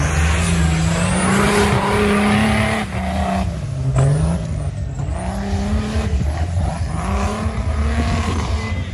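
Off-road 4x4 race engine revving hard, its pitch rising and falling with the throttle, with a sharp knock about four seconds in.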